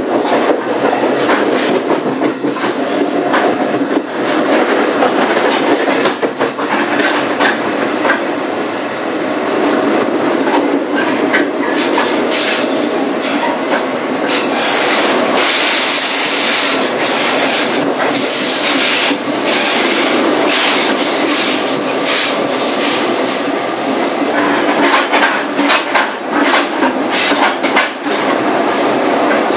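A New Jersey Transit push-pull train running behind its ALP-46A electric locomotive, heard from the coach's end vestibule by the gangway: a steady rumble and rattle of wheels on rail, with many sharp clicks and clanks throughout. A louder hissing rush fills the middle stretch.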